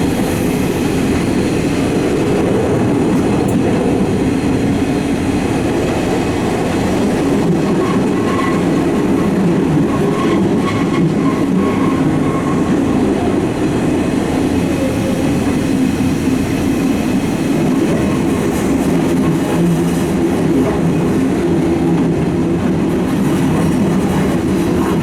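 Eizan Electric Railway electric railcar running steadily along the track: a continuous rumble of wheels on rails, with a faint high tone for a few seconds about a third of the way in.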